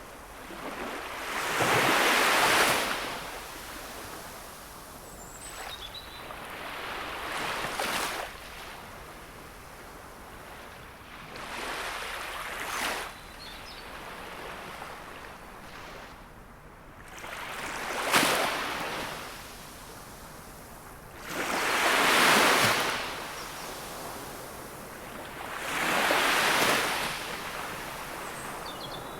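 Gentle sea waves breaking on the shore, a swell of surf every four to five seconds fading into a quieter wash between them.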